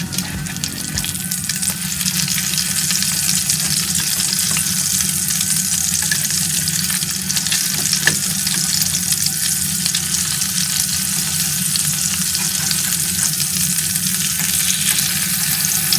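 Food sizzling as it cooks, a steady crackling hiss.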